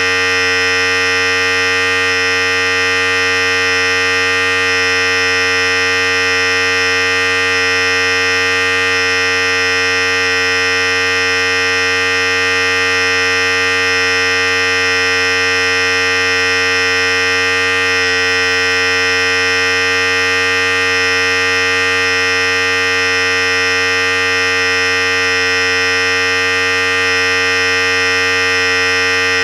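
Philips Series 5000 electric hair clipper running steadily, a constant buzzing hum with no change in speed.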